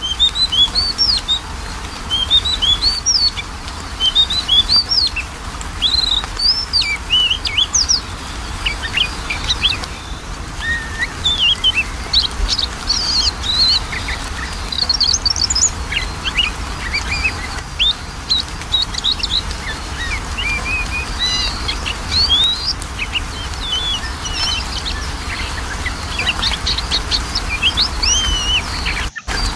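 Oriental magpie-robin (kacer) singing a fast, varied string of short whistled and chirping notes, played as a lure recording to prompt a reluctant captive bird to sing. A steady low background noise runs underneath, and the sound drops out briefly near the end.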